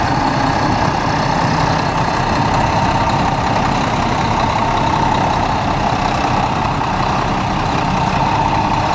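Cummins ISM six-cylinder turbo diesel of a concrete mixer truck idling steadily, with a constant whine over the engine note.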